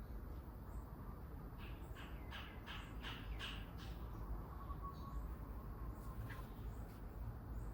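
A bird giving a quick run of about seven short, harsh calls, lasting a little over two seconds, with a few fainter calls before and after.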